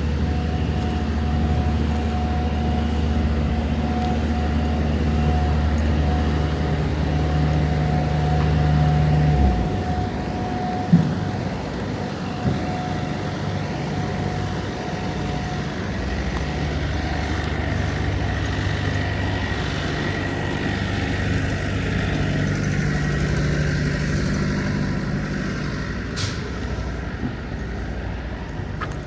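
Semi-truck engine idling close by, a steady low drone that cuts off suddenly about nine and a half seconds in, followed by a single knock; quieter idling engines carry on after.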